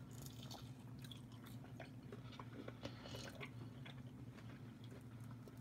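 Faint mouth sounds of people biting and chewing pizza rolls, with scattered small crunchy clicks, over a low steady hum.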